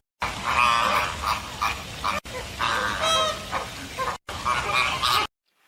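Flamingos honking, a flock giving repeated goose-like nasal calls over a noisy background. The calls come in short spliced stretches broken by brief dead-silent gaps.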